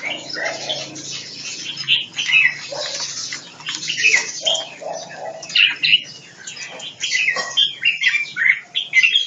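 Songbirds chirping: a dense, continuous run of short, high calls.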